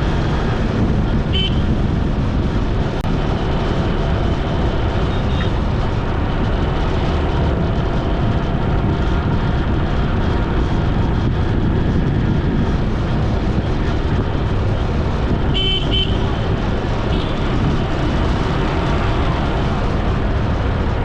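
Steady rumble of road and wind noise from a ride on a road, with a couple of short vehicle horn toots, one about a second and a half in and a quick double toot about three quarters of the way through.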